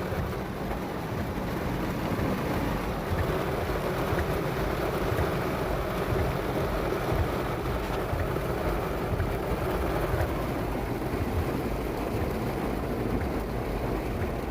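Steady noise heard inside a stopped car's cabin with rain falling on it, a little louder from about three seconds in.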